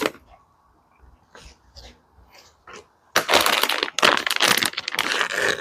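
Packaging being handled as parts are unpacked: a few light clicks and rustles, then loud crinkling and rustling from about three seconds in.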